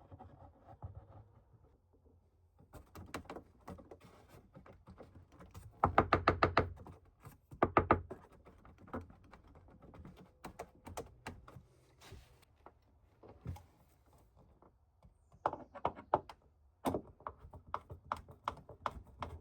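Irregular light knocks and clicks of hand work, with a quick run of rapid taps about six seconds in, a shorter one about two seconds later, and more scattered taps near the end.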